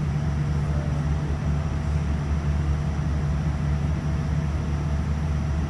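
Steady cabin noise inside a Boeing 787-9 airliner: an even low hum and rumble with constant low tones, no rise or fall.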